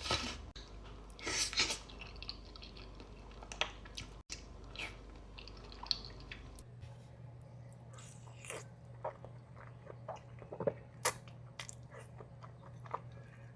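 Close-miked eating sounds: bites and chewing with short crisp crunches and wet mouth clicks. In the second half a steady low hum sits underneath.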